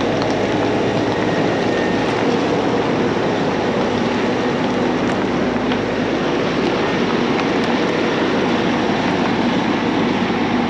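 Steady running of a tractor engine driving a PTO grain auger, a continuous mechanical drone with a low hum.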